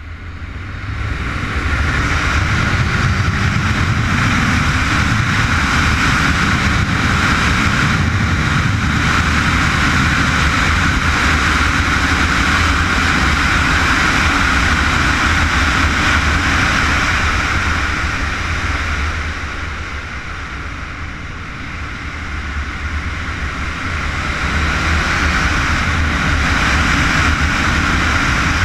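Honda CBR919RR's inline-four engine running hard at track speed, building up over the first two seconds. It eases off for a few seconds about two-thirds through, then picks up again near the end.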